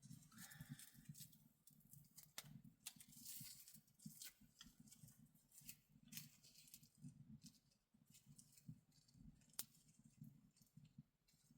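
Near silence with faint, scattered small clicks and soft rustling, like light handling of objects close by.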